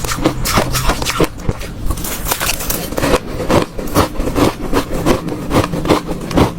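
Hard ice being bitten and crunched between the teeth close to the microphone: an irregular run of sharp cracks and crunches, several a second.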